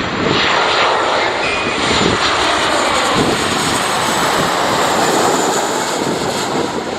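Boeing 737-700's CFM56-7B turbofan engines running at close range as the airliner comes in to land: a loud, steady rush with a high whine on top.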